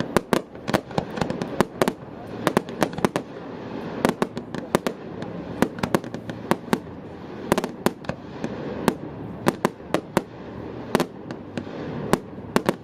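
Fireworks display going off: rapid, irregular sharp bangs and crackles, several a second, over a steady lower background rumble.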